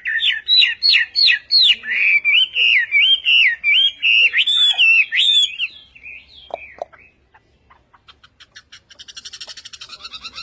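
Hwamei (họa mi) songbird singing a loud run of fast, repeated whistled notes for about six seconds. A couple of low downward calls follow, then a rapid rattling trill near the end.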